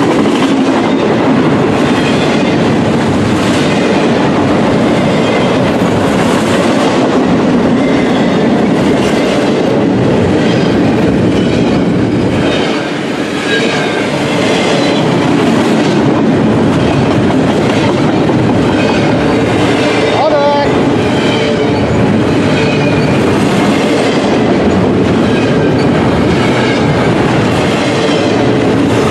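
Freight train of double-stack container well cars and autoracks rolling past close by, its wheels clattering steadily over the rails. A short wheel squeal about two-thirds of the way through.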